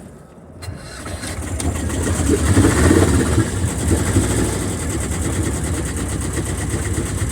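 Marine engine starting up: it comes in about a second in, builds over the next couple of seconds, then runs steadily.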